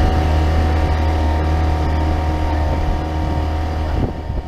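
An engine running steadily with a low, even hum, dropping off a little near the end.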